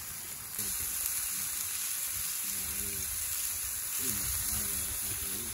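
Steak frying with a steady sizzling hiss, which gets slightly louder about half a second in.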